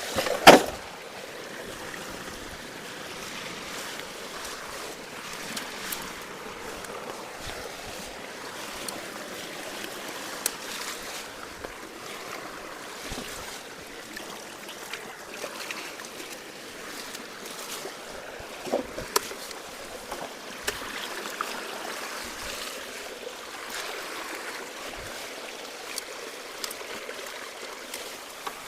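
Floodwater rushing steadily out of a culvert after heavy rain, with scattered knocks and clatter as debris is pulled from it by hand; a sharp knock about half a second in is the loudest, with two smaller ones a little past the middle.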